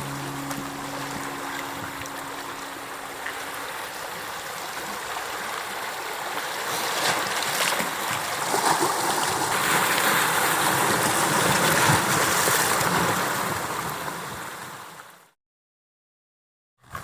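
Sea water rushing and sloshing, swelling louder in the middle, then fading out to silence near the end.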